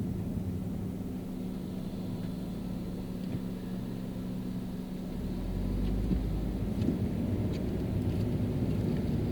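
Car driving on a rain-wet city road: a steady engine hum and tyre noise, with a deeper rumble coming in about five seconds in as the sound grows louder.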